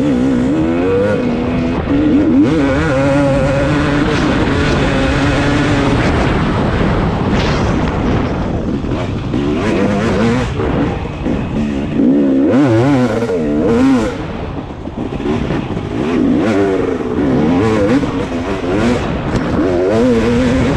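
Dirt bike engine revving hard and easing off again and again while being ridden around a sand track, its pitch repeatedly climbing and dropping.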